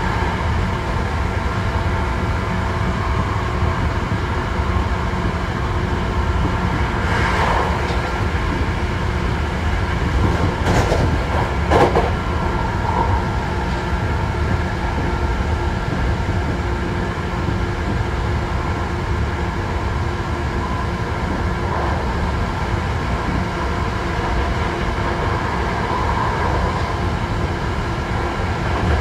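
Hankyu 1000 series electric train heard from on board, running at a steady speed: a steady rumble of wheels on rail with a constant hum of tones from the drive. A few sharp knocks come through, the loudest about twelve seconds in.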